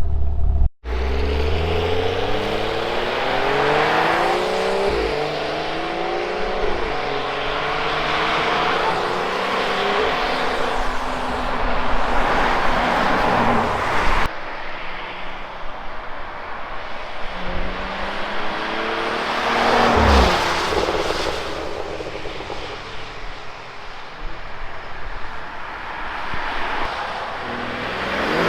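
BMW 435i xDrive's turbocharged inline-six through its factory M Performance exhaust, accelerating through the gears: the engine note climbs, drops at each upshift and climbs again, several times over.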